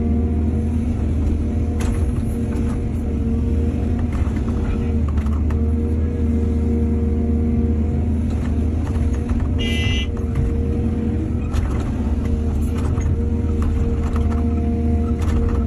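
Excavator's diesel engine running steadily, with scattered knocks and clatter and a brief high-pitched squeal about ten seconds in.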